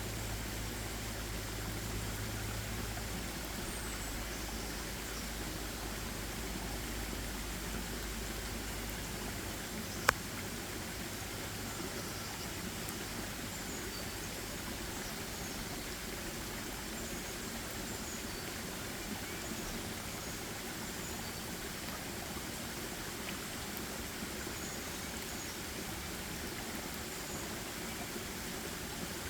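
Steady rush of a flowing stream, with faint high chirps scattered through it. A low rumble underneath fades out about ten seconds in, and a single sharp click sounds at the same moment.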